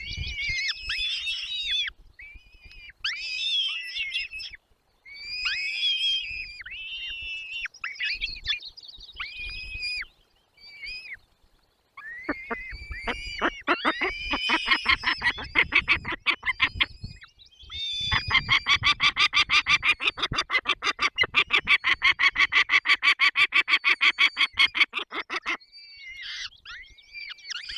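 Birds at a nest calling: short bouts of high chirps that sweep downward, then a fast run of repeated calls. About two-thirds of the way in, a rapid, even chatter of roughly six notes a second lasts about seven seconds, stops abruptly, and the chirping resumes.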